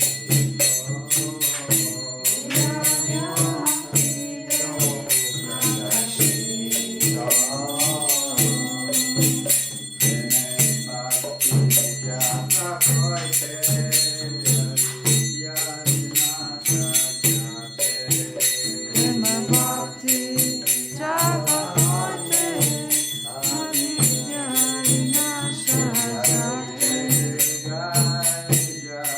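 Devotional chant music: voices singing a mantra-style melody over a sustained low drone, with bright metallic percussion keeping a quick steady beat.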